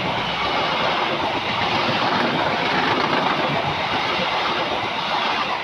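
Passenger train coaches passing close at about 100 km/h: a loud, steady rush of wheels on rail and air that begins to fade near the end as the last coaches go by.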